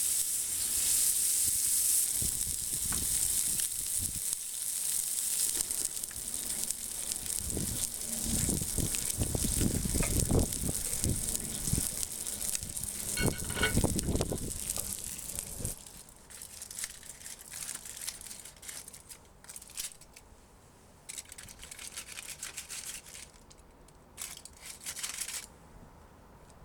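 Steak sizzling on a hot iron griddle plate, with low handling and scraping noises over it. About sixteen seconds in the sizzle drops away, leaving only short, faint bursts of hiss.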